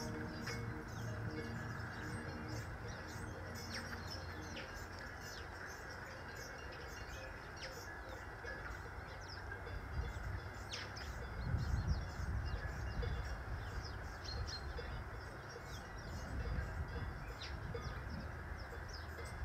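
Small birds chirping in short, scattered high calls over a steady low rumble that swells briefly about twelve seconds in.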